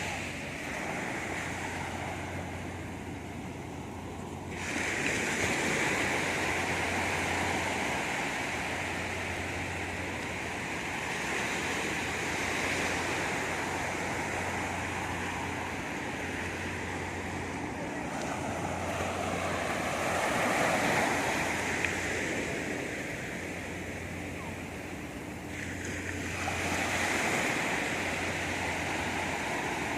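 Sea surf washing onto a beach, swelling louder several times as waves break and then falling back.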